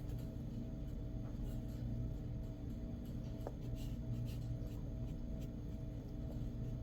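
Faint scratching and light ticks of hands working small craft materials, over a steady low hum.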